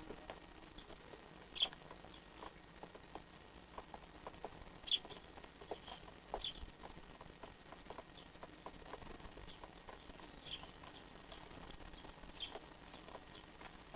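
Eurasian tree sparrows, fledglings among them, giving about five short, high chirps spaced a few seconds apart. A patter of faint light ticks runs between the chirps.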